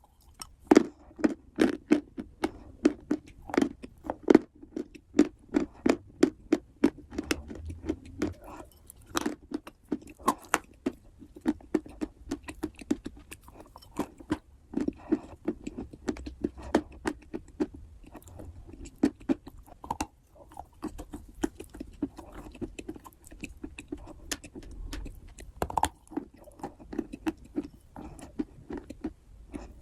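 Close-up chewing of big bites of wet clay: a continuous run of sharp mouth clicks, a few a second, with louder peaks now and then.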